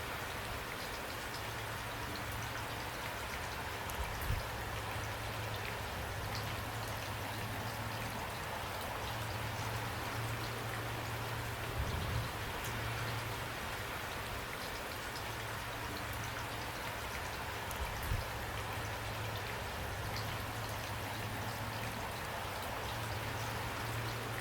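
Steady rain falling, with individual drops ticking sharply on top and a low rumble underneath; a few heavier hits stand out now and then.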